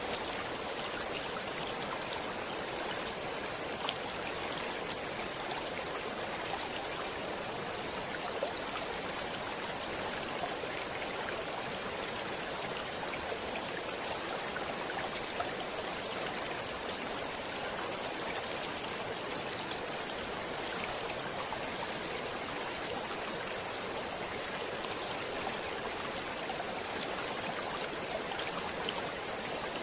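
Flowing stream water, a steady rushing babble with small splashes and droplets scattered through it.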